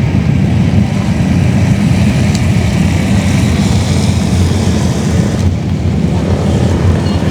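A steady, loud, low engine rumble that holds unchanged throughout.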